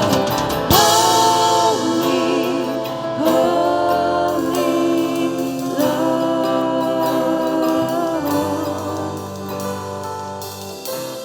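Worship music: a singer holding long notes over a band, growing softer toward the end.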